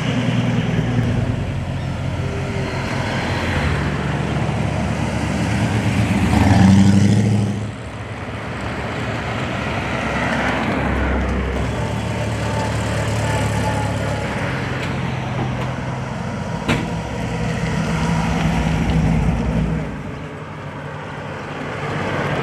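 Car engines running close by with a low, steady drone. One gets louder about six to seven seconds in and then drops off suddenly, and there is a single sharp click about seventeen seconds in.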